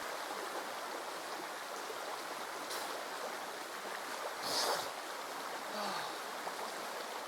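Mountain river water rushing steadily, with a brief louder burst of noise a little past the middle.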